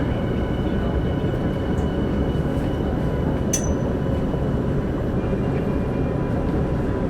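Interior of a Minato Mirai Line subway train running underground: a steady, loud rumble of wheels on rail with a faint steady whine above it, and one sharp metallic click about three and a half seconds in.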